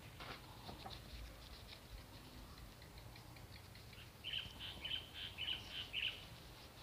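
Faint rustling and ticking of banana leaves being handled, then about four seconds in a quick run of short, high chirps, about four a second for two seconds, from a small bird.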